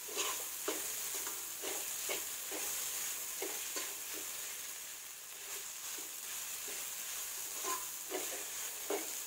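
Ground rongi (dal) mixture frying in a metal kadhai with a steady sizzle, while a metal spoon stirs it, scraping and tapping the pan in short strokes. The mixture is being roasted so that no rawness remains.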